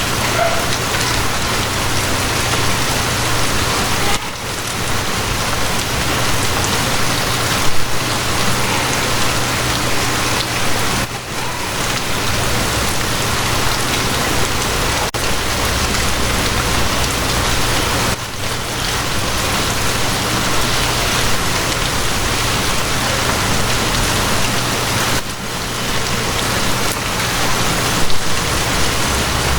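Steady rain falling and pattering on a surface, with a steady low hum underneath; the sound dips briefly every seven seconds or so.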